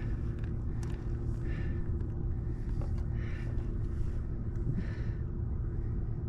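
Boat engine running at a steady idle: a low, even hum.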